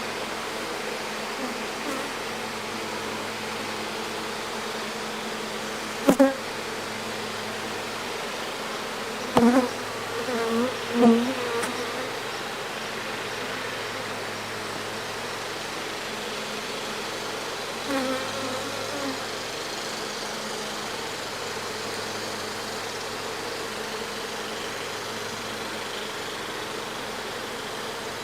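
Honey bees of an opened hive buzzing steadily, a dense hum. A few sharp knocks break in about a quarter of the way through, again around the middle, and once more later on.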